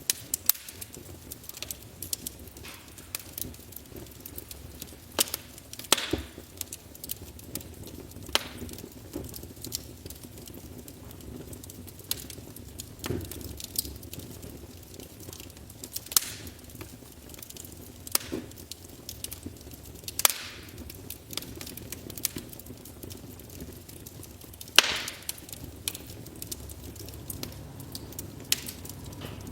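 Wood fire crackling in a fireplace: irregular sharp pops and cracks over a low steady hiss, with a few louder pops scattered through.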